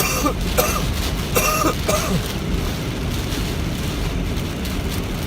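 Steady noise inside a car driving through heavy rain. In the first two seconds a man's voice makes a few short drawn-out sounds over it.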